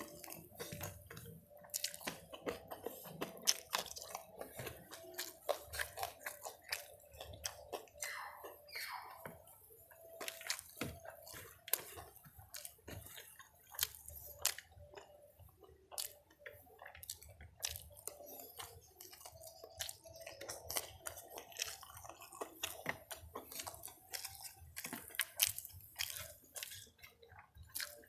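Close-miked eating of ayam geprek, crispy smashed fried chicken, with rice: steady chewing with many wet mouth clicks and smacks and occasional crunches. A brief falling squeak sounds about eight seconds in.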